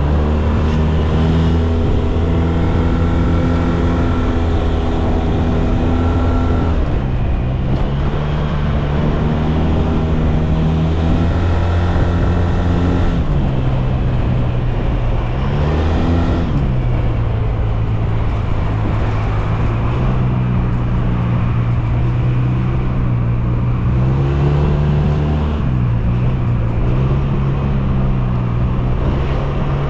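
SYM Maxsym TL 508 maxi-scooter's parallel-twin engine running on the move. Its note shifts up and down several times as the throttle is opened and eased off.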